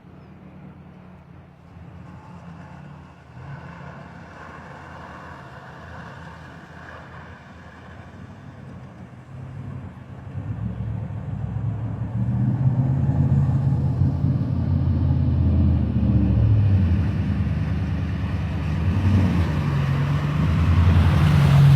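4x4 truck engine running with its pitch rising and falling, growing much louder from about ten seconds in.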